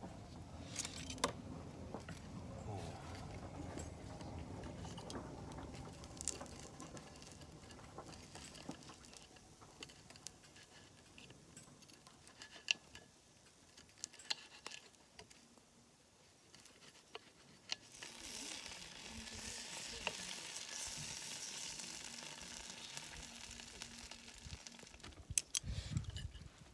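Food sizzling as it fries, faint, with scattered sharp clicks and crackles. The sizzle swells about two-thirds of the way through.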